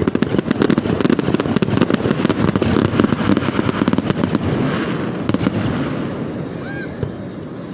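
Fireworks display: a dense, rapid run of crackling and popping bursts that thins out and fades over the last couple of seconds.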